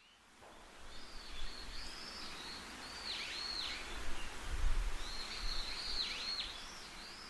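Outdoor nature ambience: a bird calling in two phrases of high notes that swoop down and back up, over a steady background hiss.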